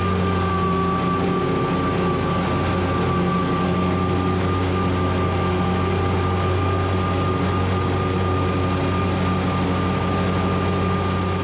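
Zero-turn mower's engine running steadily at constant speed, a deep even hum with a steady high whine above it.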